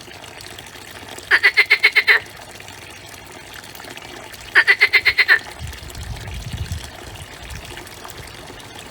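A frog calling twice, each call a quick train of about eight croaking pulses lasting under a second, over a steady background hiss. A low rumble follows briefly after the second call.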